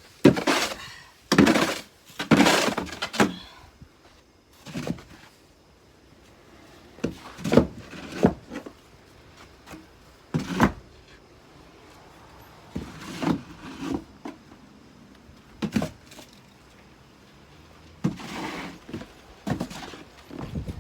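Snow shovel scraping and chopping at packed snow in irregular strokes, about a dozen short scrapes and thuds a second or two apart.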